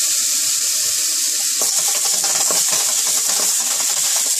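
Minced garlic and ginger frying in hot oil with whole spices in a wok, a steady sizzling hiss. From about a second and a half in, a wooden spatula stirs and scrapes them around the pan.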